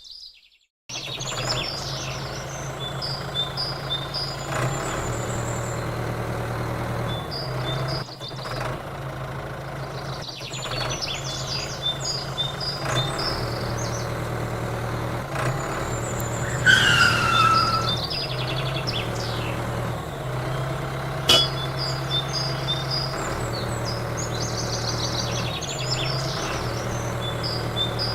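Small diesel engine running steadily with a low, even drone, typical of a mini diesel water pump, while birds chirp over it. A short falling call about two-thirds of the way through, and one sharp click soon after.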